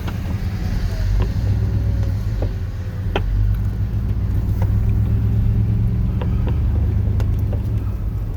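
Chevrolet plow truck's 8.1-litre Vortec big-block gas V8 running with a steady low rumble, with a few light clicks scattered over it.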